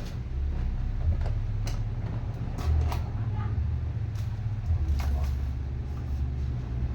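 Unboxing handling noise: scattered short clicks and rustles of packaging and parts being moved, over a steady low rumble.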